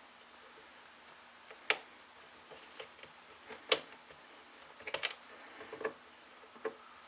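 Scattered sharp clicks and taps of small parts and hand tools being handled while reassembling a chainsaw, with the sharpest click about halfway through and a quick cluster a little later.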